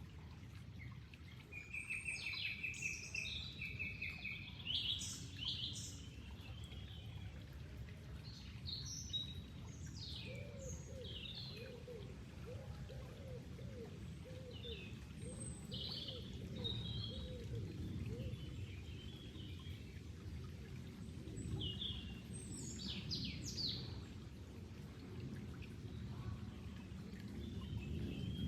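Birds chirping and trilling in scattered short phrases over a steady low rush of flowing water.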